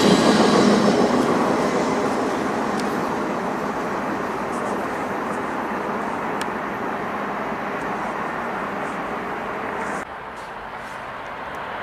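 Freight train cars rolling past on the rails, a loud steady rumble of wheels on track that slowly eases, then drops abruptly to a quieter level about ten seconds in.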